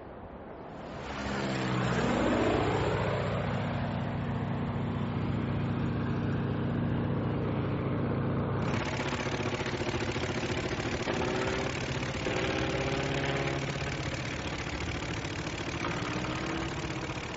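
Piston engine of a vintage propeller aircraft, coming in about a second in with its pitch shifting, then running on as a steady drone with slight wavers in pitch.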